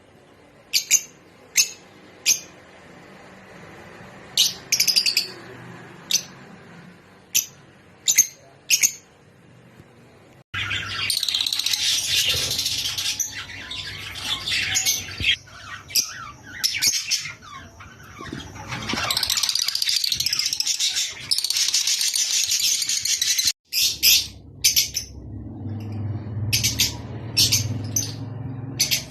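Lovebirds (rosy-faced and Fischer's) calling. For about the first ten seconds they give sharp, separate high chirps. These switch abruptly to a dense, continuous chatter of many birds, and sharp single calls come back near the end.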